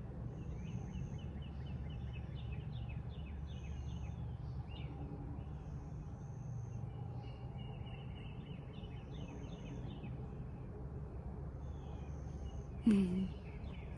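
Wild songbirds singing in the early morning: a high, thin whistled note repeated every two to three seconds and quick trilled series of chirps, over a steady low background hum. A brief louder sound with a low gliding tone comes near the end.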